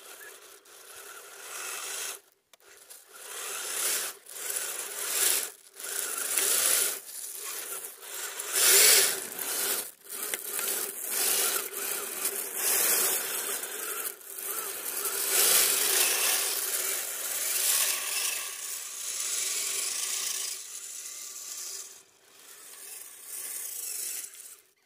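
Radio-controlled truck driving on icy, crusty snow: its wheels spin and scrape at the frozen surface in repeated gritty surges, over a steady whine from the electric motor and gears. The scraping is loudest about nine seconds in and drops out briefly twice.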